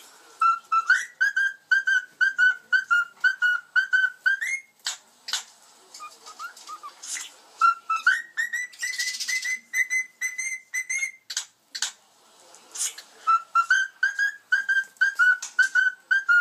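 Cockatiels whistling a song: three phrases of quick, short whistled notes, the middle one pitched higher and rising slightly, with a few short sharp calls between the phrases.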